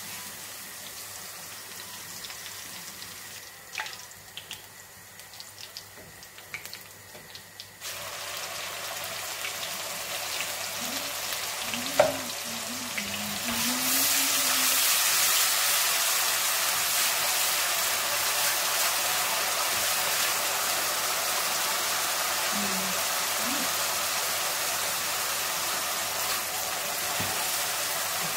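Chopped food sizzling as it fries in oil in an aluminium karahi, stirred with a wooden spoon that knocks against the pan now and then. The sizzle grows louder about 8 seconds in and again about 13 seconds in as the pieces brown.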